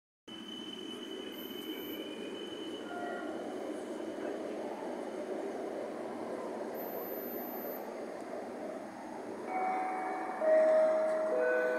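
Electric passenger train approaching a station platform, a steady rumble. In the last couple of seconds several steady high tones come in one after another and become the loudest part.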